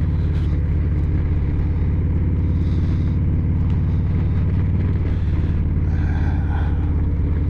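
Harley-Davidson Low Rider ST's Milwaukee-Eight 117 V-twin engine running steadily under the rider.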